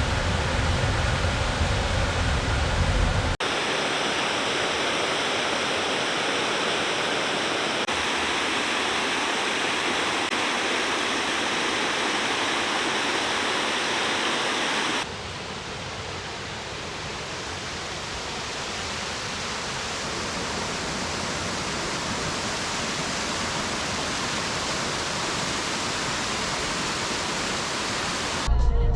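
Steady rush of falling water from a waterfall, with abrupt changes in the sound about three seconds in and again about halfway through; a low rumble sits under it in the first few seconds.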